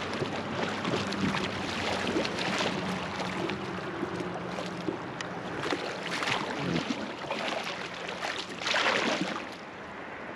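River water rushing and splashing around a floating raft, with several louder surges of splashing, the biggest near the end.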